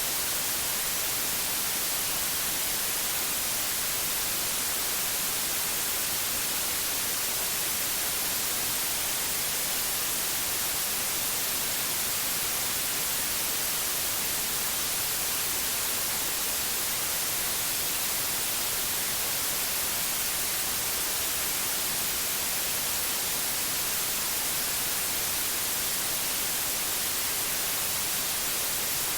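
Pure white noise: a steady, even hiss with no changes.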